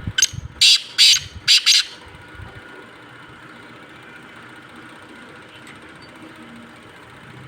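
Black francolin (black partridge) calling: a quick series of four or five loud, harsh grating notes in the first two seconds, then it falls silent over a steady low background hum.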